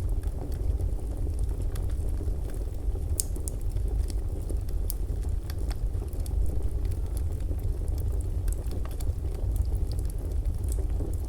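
Fireplace fire crackling: a steady low rumble with scattered sharp pops and crackles.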